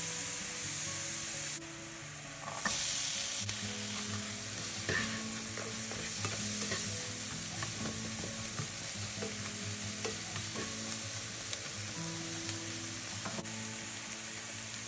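Butter and diced onion frying in a pan, a steady sizzle with small clicks of stirring. The sizzle dips about two seconds in and comes back louder.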